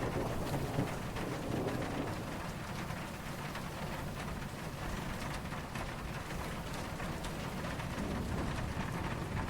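Steady rain falling, with low distant thunder rumbling beneath it. The rumble grows a little louder near the end.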